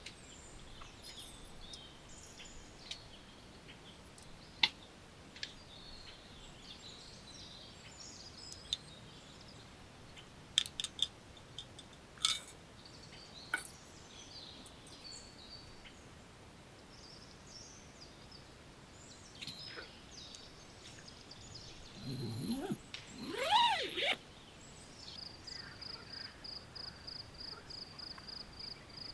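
Outdoor nature ambience with small birds chirping here and there and a few sharp clicks. About two-thirds of the way in comes a louder animal call that sweeps up and down in pitch. Near the end a high chirping in a fast, even pulse sets in, like an insect.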